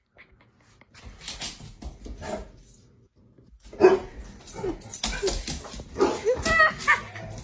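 A dog barking and whining, with a sharp bark about four seconds in followed by several wavering, rising and falling whines.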